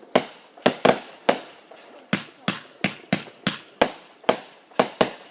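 Consumer fireworks going off in a rapid series of sharp bangs, about a dozen reports at two to three a second with brief gaps, each with a short trailing echo.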